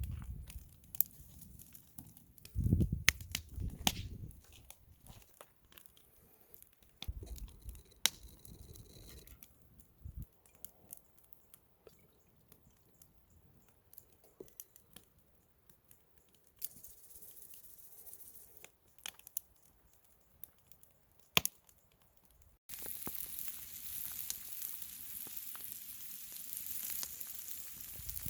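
Scattered clicks, crinkling and low handling bumps of food preparation, then, about two-thirds of the way through, a steady sizzle starts abruptly: fajita ingredients frying in olive oil over a campfire.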